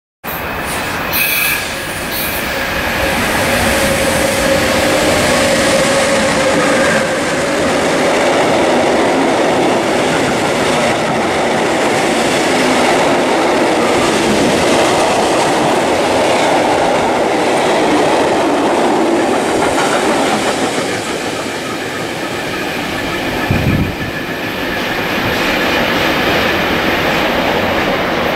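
A train passing close by at line speed: a long, steady rolling noise of wheels on rails that cuts in abruptly at the start. A faint steady whine rises above it about four to seven seconds in, and there is a short thump near the end.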